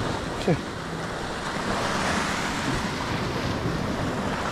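Sea waves washing on the shore, an even rushing that swells and eases about two seconds in, with wind on the microphone. A short sharp sound comes about half a second in.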